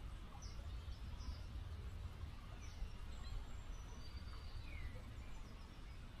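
Small river flowing steadily, a continuous rushing hiss. Birds chirp over it: several short high chirps through the first few seconds, and a falling whistled note about five seconds in.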